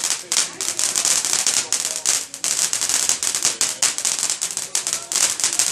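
Fireworks crackling: a fast, dense run of sharp pops and snaps that keeps going without a break.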